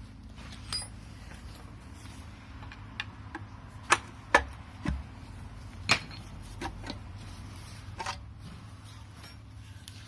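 Scattered sharp clicks and clinks of hand tools and metal fasteners as a cover is worked off a VW 1.8T engine during teardown, about half a dozen irregular knocks over a low steady hum.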